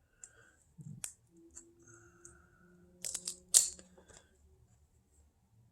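1999-00 Topps basketball cards being handled and flipped through: soft sliding and flicking of card stock, with a cluster of sharper card snaps about three seconds in.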